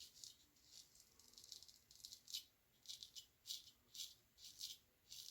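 Faint, quick scraping strokes of a Gold Dollar straight razor through stubble, about fifteen short strokes at an irregular pace, touching up a small remaining patch.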